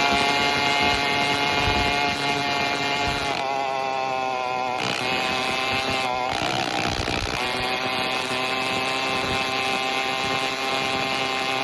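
Phantom 85 two-stroke bicycle engine running with no exhaust pipe. Its note drops a little past three seconds in, then rises again as it picks up speed around six to seven seconds in.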